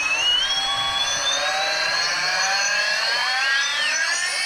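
Two brushless drone motors spinning on a motor test rig, a high whine whose pitch climbs steadily and then wavers, the two tones gliding and crossing as the motors run at slightly different speeds. This is the check that both motors work.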